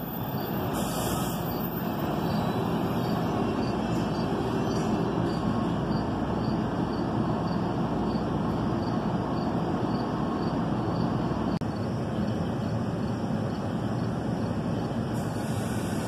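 NJ Transit double-deck commuter train rolling steadily along the platform track, a continuous rumble of wheels on rail, with a short hiss about a second in and again near the end.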